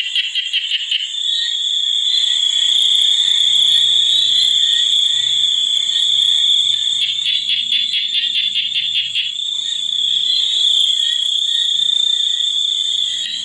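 Chorus of insects and frogs: a steady high-pitched insect drone, with bursts of rapid pulsed trills and faint low croaks.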